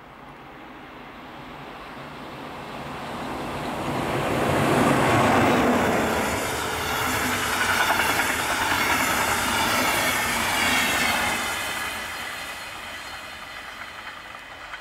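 Passenger train hauled by a DB Class 111 electric locomotive approaching and passing at speed: a rush of wheels on rail that builds to its loudest about five seconds in, holds with wheel clatter over the rails, then fades away.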